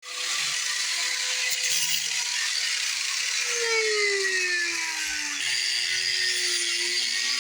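Angle grinder with a cut-off wheel cutting, a steady high whine over grinding noise. Its pitch sags gradually for a couple of seconds as the wheel is loaded into the cut, then holds.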